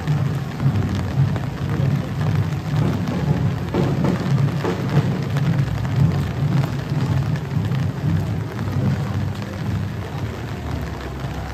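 Steady rain falling on a wet road, with scattered drop ticks over a low, uneven rumble.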